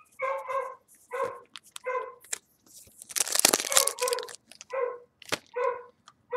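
A dog barking again and again, a short bark roughly every two-thirds of a second. About halfway through, a loud rustling, handling noise covers the barking for about a second.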